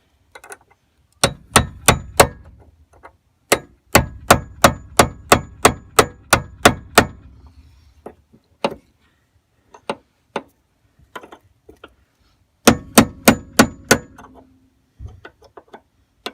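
Hammer blows on metal driving at a stuck door hinge pin on a GM truck, with a ringing clang on each hit. The blows come in quick runs: four, then about a dozen at roughly two a second, then a few single taps and another five near the end.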